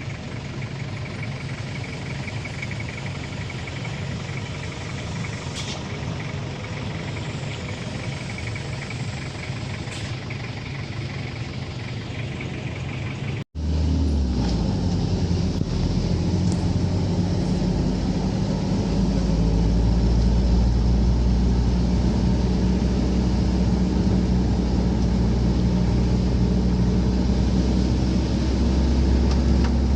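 A motor vehicle's engine running steadily. It cuts out abruptly about 13 seconds in, then comes back as a louder, deeper drone that swells a little further some 19 seconds in.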